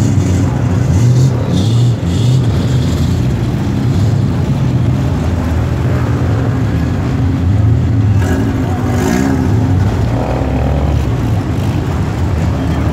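Car engines running close by, a steady low rumble, with a brief rise and fall in pitch about nine seconds in.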